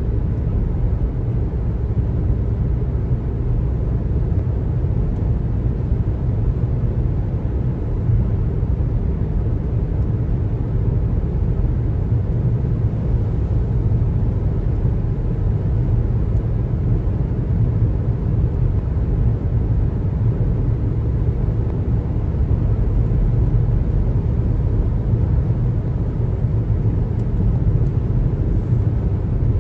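Steady road noise of a car driving, a continuous low rumble from the tyres and engine.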